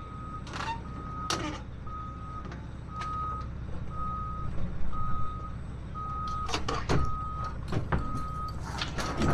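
Backup alarm on heavy equipment beeping steadily at about one beep a second, over a diesel engine running, with a few sharp clanks.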